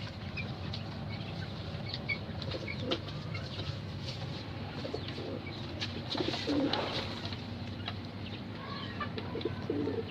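Caged birds: pigeons cooing now and then, with short faint chirps and scattered clicks and rustles over a steady low hum.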